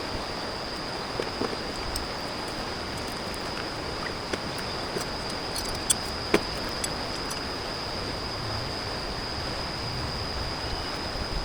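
A steady, high-pitched insect drone over the even rush of river water, with a few sharp ticks around the middle.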